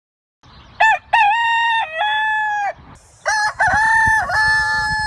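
Rooster crowing twice: two drawn-out cock-a-doodle-doo calls, each ending on a long held note. The first comes about a second in and the second about three seconds in.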